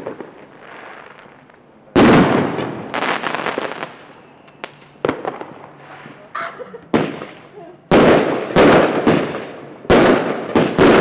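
Fireworks going off in a rapid series of about a dozen sharp bangs, each fading away quickly, coming thicker in the second half.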